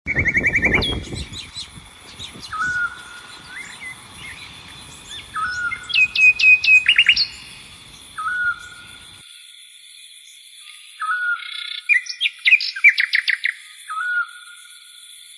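Several wild birds calling in open country: one short call repeats about every three seconds, and others give bursts of quick trilled notes, over a steady high-pitched drone. A low rumbling noise runs under the first half and stops about nine seconds in.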